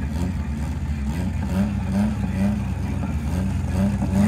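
Race car engine of a 1987 Honda CRX running at the drag strip start line, a steady low rumble whose pitch wavers up and down in a regular pulse a few times a second.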